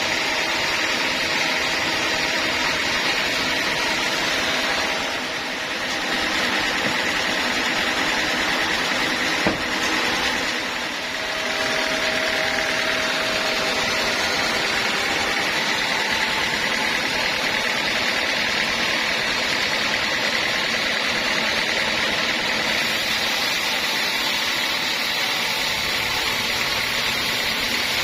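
Homemade band sawmill running steadily with a loud, even machine noise. The level dips briefly twice, and there is a single sharp click near the middle.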